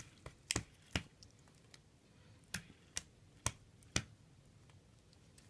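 Sharp clicks and taps, about seven of them, as caked ice and snow are knocked and brushed off a steel dive watch. Three come in the first second, then four evenly spaced about half a second apart.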